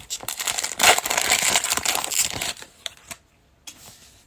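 Plastic wrapper of a football card pack being torn open and crinkled, a dense crackling rustle that stops about two and a half seconds in, followed by a few light clicks of card handling.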